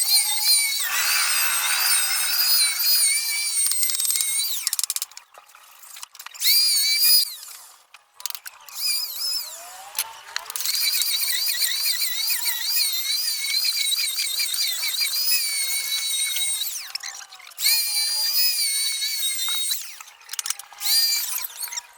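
Power tool motor running in spells with a high whine whose pitch wavers as the load changes. It stops and starts again several times.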